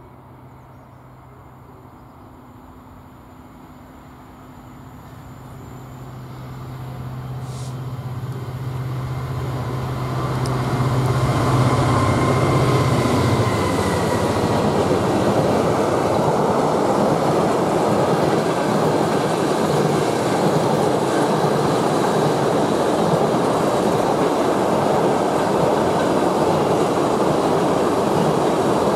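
Class 66 diesel-electric locomotive with an EMD two-stroke V12, its engine drone growing steadily louder as it approaches and dropping slightly in pitch as it passes about 13 seconds in. After that, a long rake of container flat wagons rolls past with a loud, steady noise of wheels on rails.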